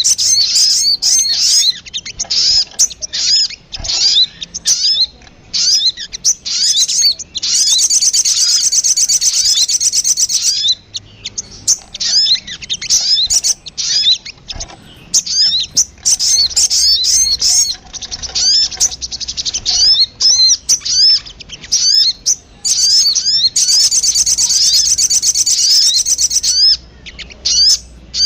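Little spiderhunter (sogon) calling: a fast run of sharp, high chip notes, broken by two longer, rapid trills, about 8 s in and again about 24 s in.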